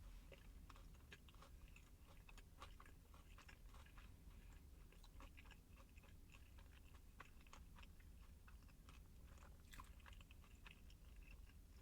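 Quiet, close-miked chewing of a crispy fried chicken sandwich with bacon: irregular soft crunches and wet mouth clicks.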